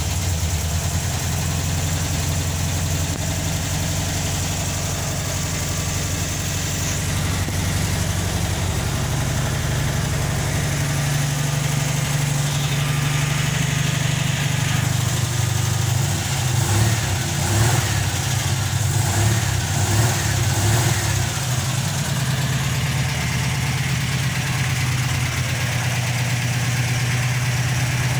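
Volkswagen Beetle's air-cooled flat-four engine idling just after a start following several days parked. Its idle steps up in pitch about a third of the way through, then runs unevenly and a little louder for a few seconds past the middle before settling back to a steady idle.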